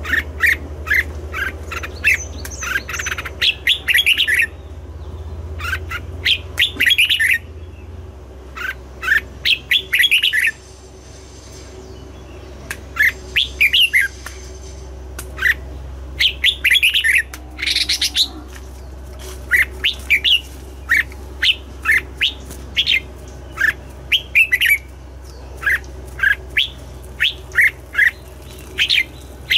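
Red-whiskered bulbul singing: quick, short chirping phrases repeated with brief pauses, and a gap of about two seconds near the middle, over a steady low hum.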